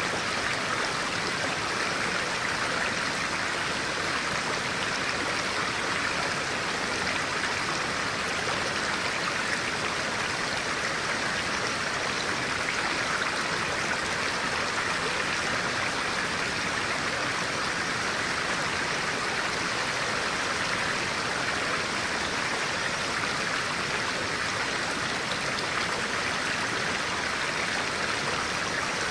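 Stream of clear water running steadily, an even, unbroken sound of flowing water.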